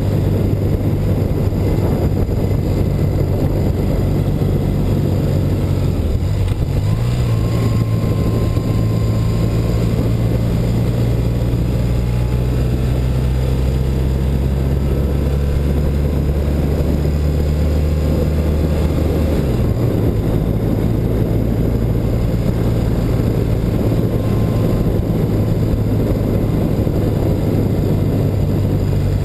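1984 BMW R100RS's air-cooled flat-twin boxer engine running steadily under way, with wind rushing past. The engine note rises a little about six seconds in, holds, then drops back about twenty seconds in.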